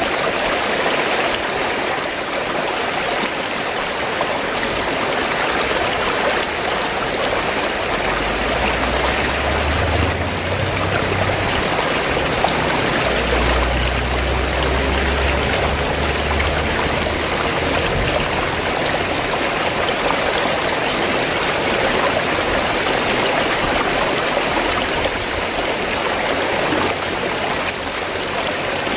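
Fast-flowing stream water rushing and gurgling in a steady, even wash. A low rumble rises under it for several seconds partway through.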